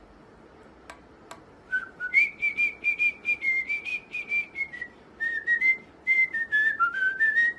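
Pet bird whistling a tune: after a quiet start with two faint clicks, a quick run of short clear whistled notes, several a second, wavering up and down around one pitch.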